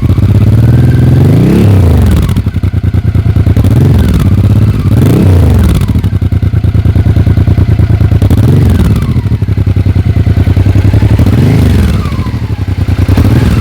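Honda XRV 750 Africa Twin V-twin engine idling through its exhaust, blipped about six times with short throttle revs that rise and fall quickly back to idle.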